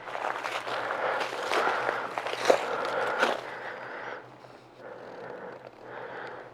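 Footsteps of a hiker walking on a forest trail, a run of short scuffs and clicks that grows quieter about four seconds in.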